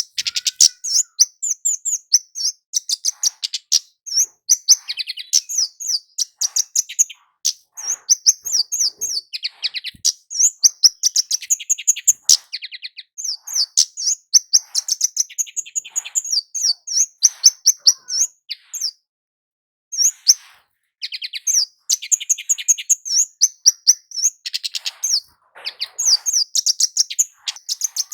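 Flowerpecker ('kemade jawa', 'cit keres') calling in full voice: rapid high, sharp chittering notes in fast runs, with a short break a little over two-thirds of the way through.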